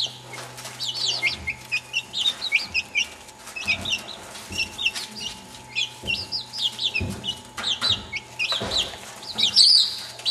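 Birds chirping: many short, quick, high chirps that slide in pitch, over a steady low hum, with a few soft knocks.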